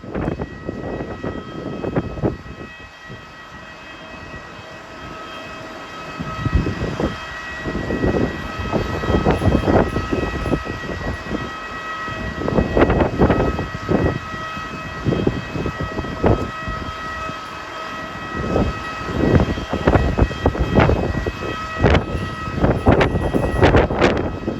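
Strong gusting wind buffeting the microphone in irregular bursts, over a steady high whine of several fixed tones from aircraft or de-icing machinery at the stand.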